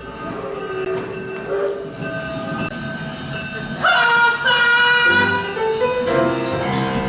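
Piano music, then about four seconds in a loud train whistle blowing a chord of several steady tones, with the music carrying on underneath.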